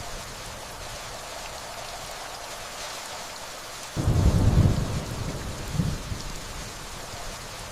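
Steady rainfall throughout, with a low rumble of distant thunder that sets in suddenly about four seconds in, swells briefly, surges once more and dies away near the end.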